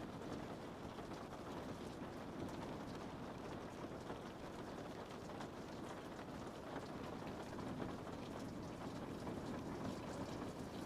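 Steady rain falling on a window: an even, unbroken hiss with faint scattered taps of individual drops.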